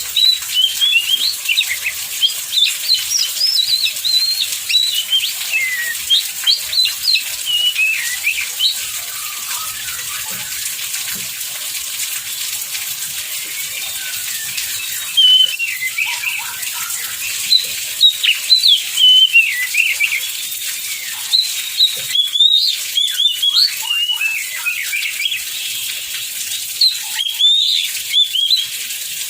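Oriental magpie-robin singing rapid, varied phrases of whistles, trills and sweeping notes, pausing for several seconds midway, over a steady hiss of heavy rain.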